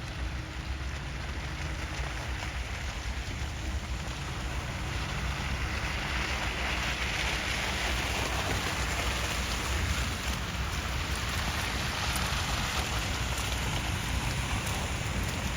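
Street traffic in a snowstorm: a vehicle's tyres hiss on the wet road as it passes, swelling in the middle and fading again, over a steady low rumble.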